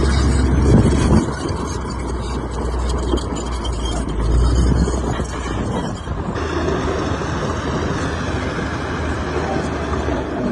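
Heavy diesel earth-moving machinery running, a steady low engine rumble with noise over it. The rumble drops a little about a second in, and the sound changes abruptly about six seconds in.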